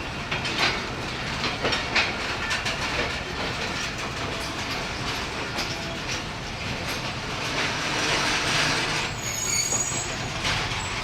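Passenger train coaches rolling into a station, wheels clacking over rail joints, with a high metallic wheel squeal near the end.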